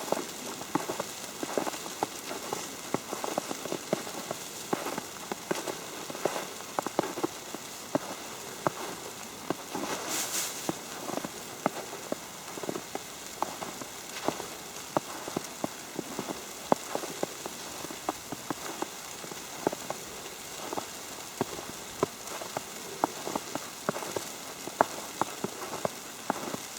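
Falling snow striking an open umbrella: many light, irregular ticks over a steady hiss, with a brief higher hiss about ten seconds in.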